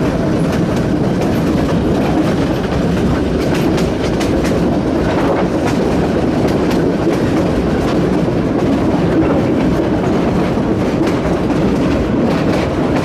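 Cumbres & Toltec narrow-gauge passenger train rolling along the track: a steady rumble with quick, uneven clicks of the wheels running over the rails.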